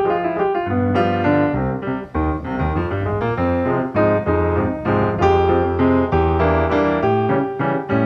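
Background piano music: a quick run of notes over held bass notes.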